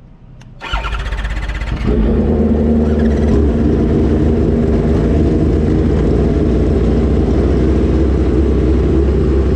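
Drag-racing motorcycle engines running loud and steady with a heavy low rumble, starting about a second in and stepping up louder shortly after, the pitch holding rather than climbing.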